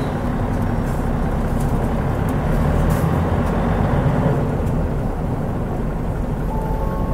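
Mitsubishi Fuso Aero Star city bus with a turbocharged 6M70 inline-six diesel engine, running as the bus drives, a steady low drone. It swells a little from a couple of seconds in and eases off again about five seconds in.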